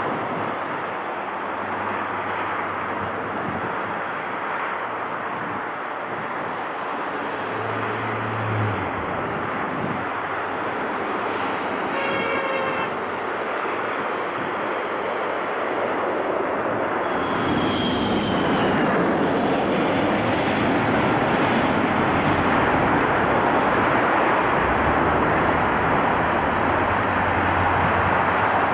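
Steady rushing roar of engine and traffic noise that swells louder about seventeen seconds in and stays up, with a brief run of short high beeps or toots about twelve seconds in.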